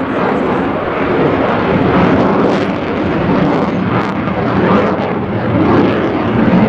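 Loud jet noise from an F-35A Lightning II flying its demonstration: a dense, steady rush that swells and eases as the fighter moves.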